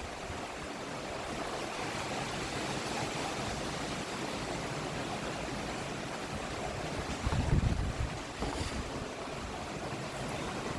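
Cyclonic storm wind rushing steadily, with a gust buffeting the microphone about seven seconds in.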